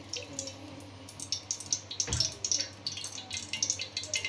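Vegetable oil in a hot pot crackling and spattering in irregular pops that grow busier after about a second. A single dull thump comes about two seconds in.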